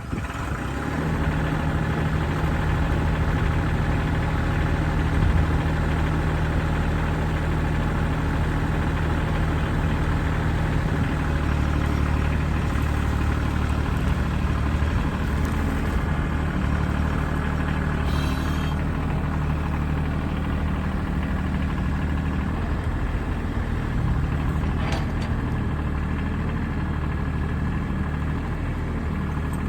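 New Holland tractor engine, started just before, running steadily at idle; its deep low tone grows stronger about eleven seconds in.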